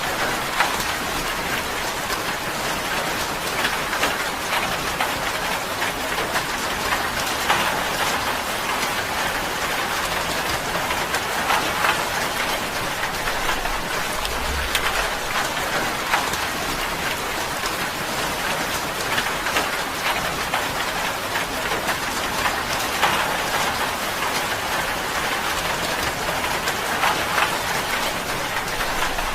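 Steady rain falling on a tin roof, a dense even patter with individual drops ticking on the metal. A faint low rumble comes in briefly about halfway through.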